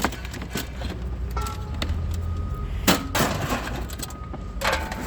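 Vehicle engine idling with a steady low hum, under scattered small metal clinks and one loud metallic clatter about three seconds in as scrap metal is handled.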